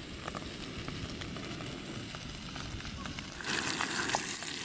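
Bacon frying in a pan, a steady sizzle with small crackles, growing louder about three and a half seconds in.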